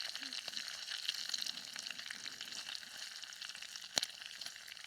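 Bacon sizzling in a frying pan over a campfire: a steady crackling hiss dotted with small pops, and one sharper pop about four seconds in.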